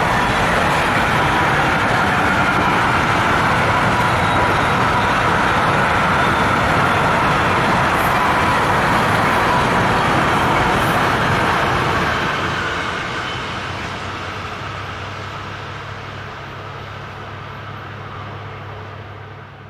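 A train passing close by on the main line, a steady loud rush of wheels on rails, then fading away into the distance from about twelve seconds in.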